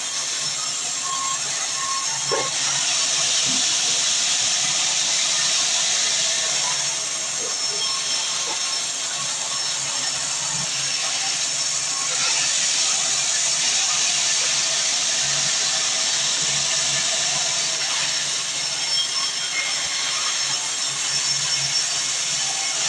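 Sawmill saw cutting through a large log, a steady high hiss that swells slightly at times.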